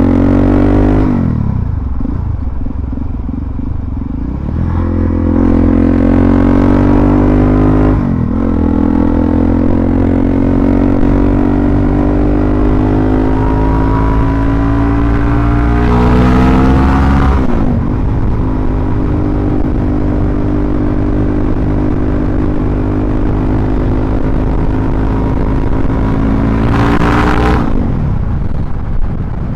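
Suzuki DRZ400SM's single-cylinder four-stroke engine running under way, its pitch climbing slowly between a few quick drops and swoops in revs.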